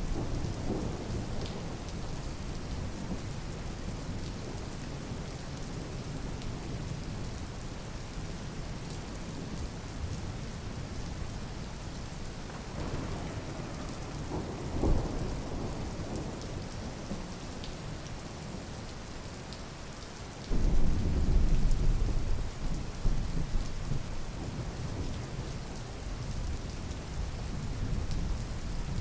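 Steady rain falling, with thunder: a low roll about halfway through and a louder, sudden rumble starting about two-thirds of the way in that lasts several seconds.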